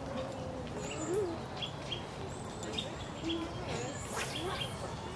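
Small birds chirping in the surroundings, short high calls repeated several times a second, with a brief rushing noise a little past four seconds in.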